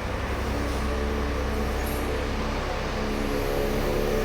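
A motor vehicle engine running steadily, a continuous low rumble with shifting mid-pitched hum.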